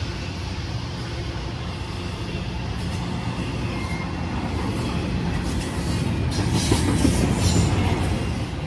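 A train rolling past: a steady rumble of steel wheels on rail, growing louder with a run of sharp clicks about six to eight seconds in.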